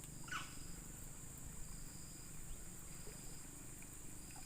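Steady high-pitched insect chorus, with a short high note repeating about every second and a half and one quick falling call about a quarter of a second in.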